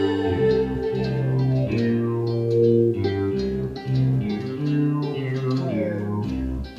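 Live jazz instrumental: a moving bass line of sustained low notes under plucked guitar-like melody notes.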